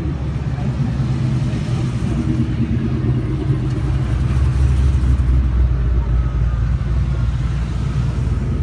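A Mustang's engine running loud with a deep low rumble, swelling louder about halfway through and easing back after.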